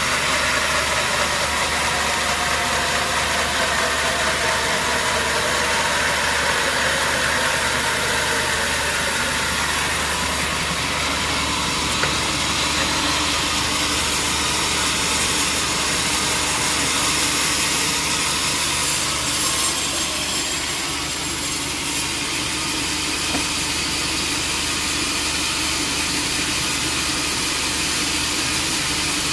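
Sawmill machinery running, a steady engine-like drone with hiss, whose pitch shifts during the first several seconds before settling.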